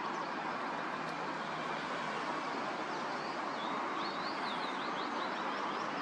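Faint chirps of small birds in the second half, over a steady background hiss.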